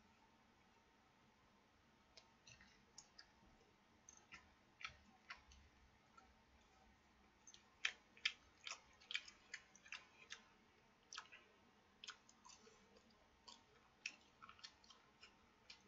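Quiet eating sounds of a man chewing soy-sauce-fried bacon: irregular small clicks and smacks, busiest and loudest in the middle.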